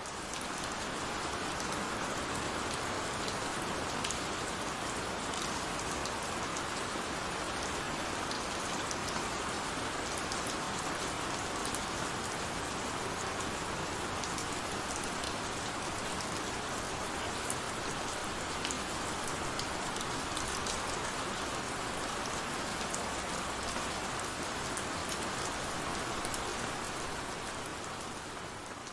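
Heavy rain falling steadily: a dense, even hiss dotted with many sharp individual drop hits.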